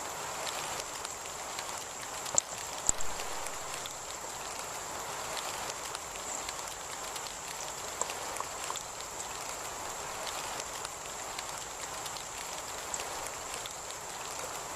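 Heavy rain falling steadily, with scattered drops tapping close by and two sharper taps about two and a half and three seconds in.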